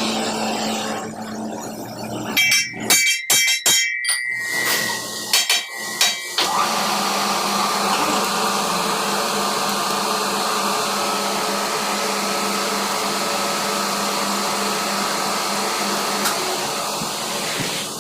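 Metal being struck with a hammer, about ten sharp blows in a few seconds, with a ringing metallic tone. A steady powered machine then starts and runs on without change until just before the end.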